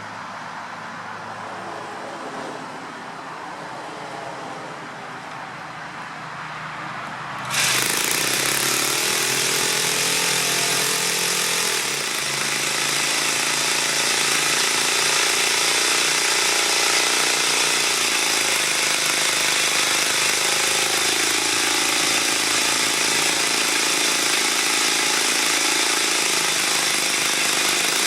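Enya 80-4C single-cylinder four-stroke glow model engine running. It is fairly quiet at first, then about seven and a half seconds in it turns sharply louder and brighter and keeps running loud and steady, with a brief dip in speed near twelve seconds.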